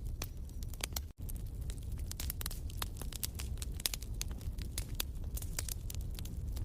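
Wood fire crackling in a fireplace: many sharp, irregular pops and snaps over a low steady rumble of flame. The sound cuts out for an instant about a second in.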